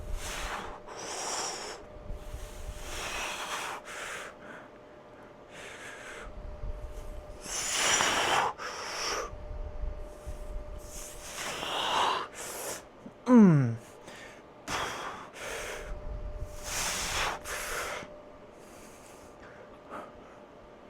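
A man breathing hard after a heavy leg-day set, with deep, noisy breaths every second or two. About 13 seconds in there is one short groan that falls in pitch, the loudest sound.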